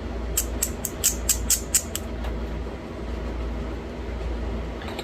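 A quick run of about eight sharp stone clicks as small flakes pop off the edge of a thin green novaculite flake being worked into a bird point, over a steady low hum.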